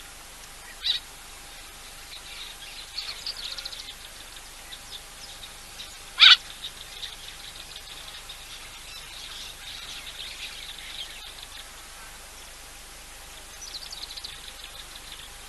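Wild birds calling around an African waterhole: scattered short chirps and trills, with a sharp note about a second in and one brief, much louder sharp call about six seconds in. A faint steady hum lies underneath.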